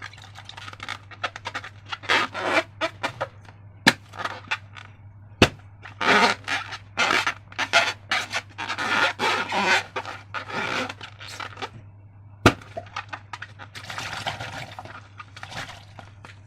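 Slime and transparent balloons being handled: a run of short, irregular squishing and crackling noises, with three sharp clicks spread through.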